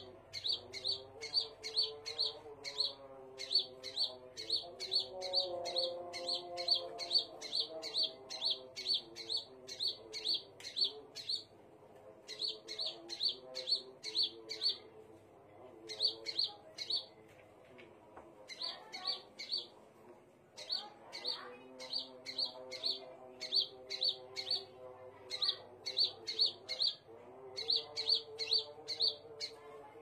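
Scarlet minivet calling: a fast series of short, sharp, high notes, about three a second, in runs broken by brief pauses.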